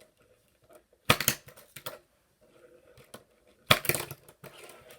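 Fingerboard (Tech Deck) being flipped and landing on a hard surface: two sharp clattering clacks, about a second in and again near four seconds, each a quick rattle of the small board's wood and trucks.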